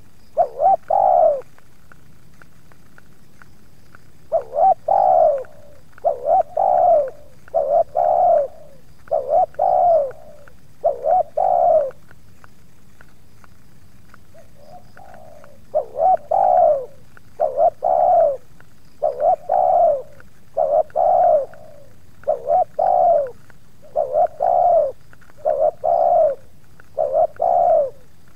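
Spotted doves (tekukur) cooing, repeated coo phrases about one every two seconds, with two short pauses.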